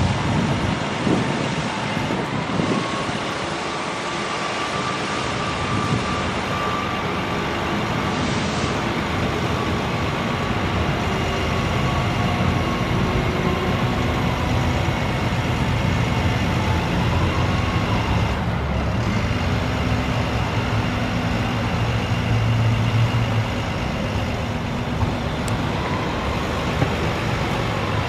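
International DT466 diesel engine running steadily, with a thin whine above it that slowly rises and falls in pitch. The low engine note grows stronger about three quarters of the way through.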